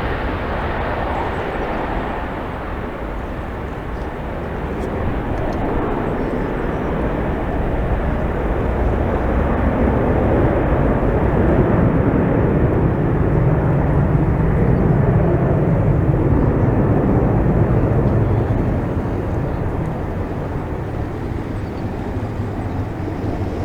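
Boeing 767-300F freighter's twin jet engines at takeoff power, a broad steady roar that builds to its loudest about halfway through and then fades as the jet moves away.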